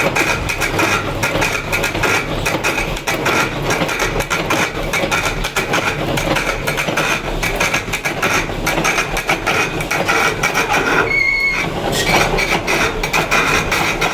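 Stone being worked with tools: a dense, steady run of rapid tapping and scraping that breaks off briefly about eleven seconds in.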